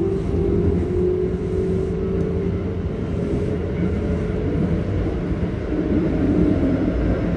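Keikyu 1500 series electric train heard from inside the car: the steady rumble of wheels on the rails, with the faint whine of its Toyo GTO-VVVF inverter rising slightly and fading in the first few seconds.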